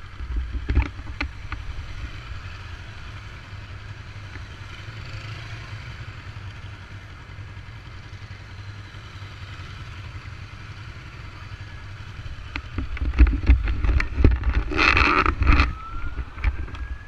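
Motor vehicle engines running in road traffic, a steady low rumble with some wind hiss, growing louder for a few seconds near the end.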